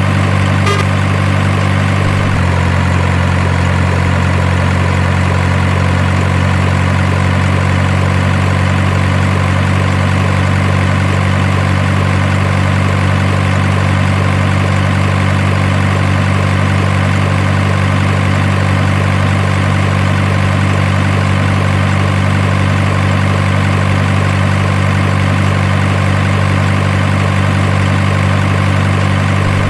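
Steady truck engine idle sound, low and unchanging, with a slight shift in tone about two seconds in.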